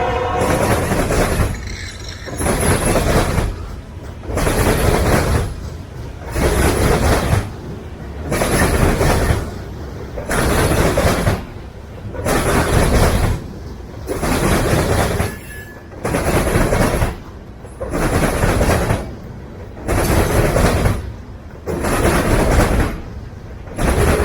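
Freight train cars rolling past on the rails. The wheel noise swells and drops about every two seconds as each car goes by.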